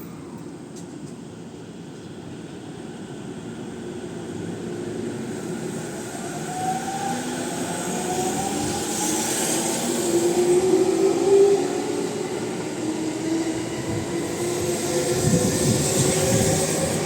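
JR East Musashino Line electric commuter train pulling into the station, growing steadily louder as it approaches. Its motors give a drawn-out whine with shifting tones, and the wheels clatter over the rails near the end.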